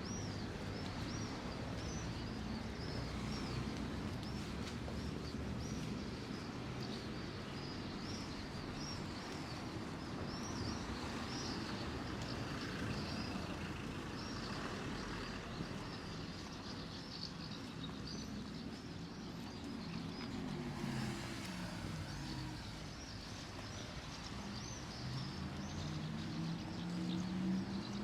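Street ambience: small birds chirping over and over above a low traffic rumble. Past the middle a car engine passes with its pitch falling, and near the end another vehicle's engine rises in pitch as it speeds up.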